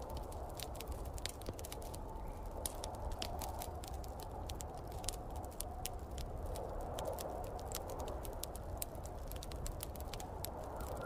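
Wood fire crackling, many sharp pops and snaps at an uneven rate, over a steady rushing of snowstorm wind that swells and eases.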